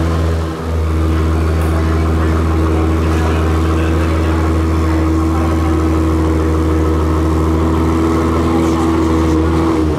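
Aston Martin V12 Speedster's twin-turbo V12 idling steadily, with a brief dip in level about half a second in.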